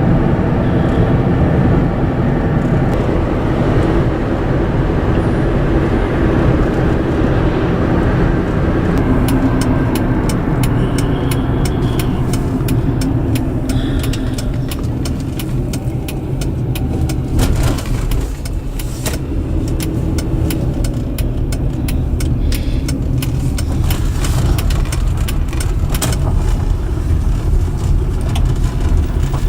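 Car cabin noise while driving: a steady low road and engine rumble, with scattered light clicks and rattles in the second half.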